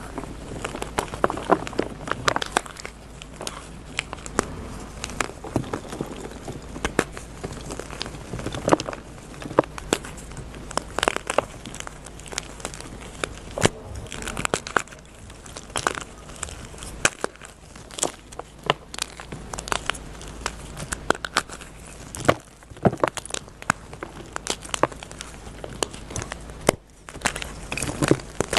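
Blocks of dyed gym chalk being crushed and crumbled, giving dense, irregular crunches and crackles.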